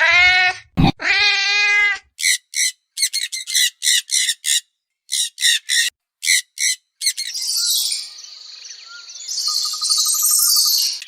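A cat meows twice, each call about a second long. Then short, high bird chirps come in a quick, uneven series, giving way after about seven seconds to dense, continuous bird twittering.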